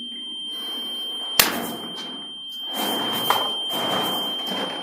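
A sharp click, then a steady high-pitched electronic beep that holds, with several swells of breathy rushing noise over it.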